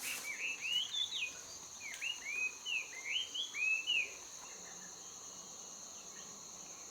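A bird singing a series of short, arched whistled notes in two phrases for about four seconds, over a steady high-pitched insect drone from crickets or cicadas.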